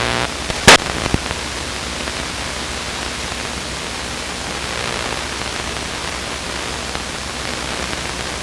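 Steady hiss of a light aircraft's cabin noise in flight, heard through the intercom recording, with a sharp click just under a second in.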